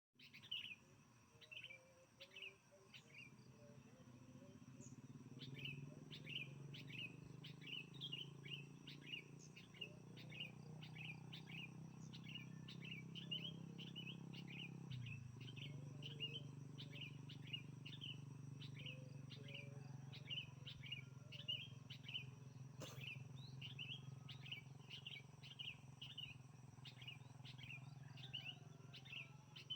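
A bird chirping over and over: short, sharp, downward chirps, a few every second, with a brief pause a few seconds in. A low, steady hum runs underneath.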